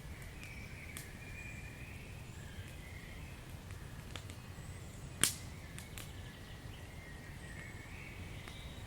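Wood fire crackling in a fireplace: scattered sharp pops and snaps over a low steady rumble, with one much louder pop about five seconds in.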